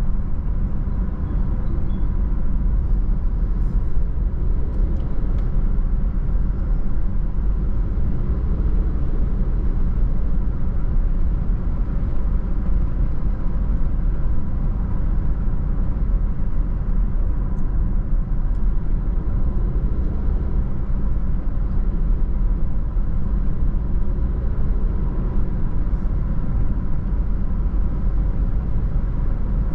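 Car driving at a steady speed: an even, low road-and-engine rumble that does not change.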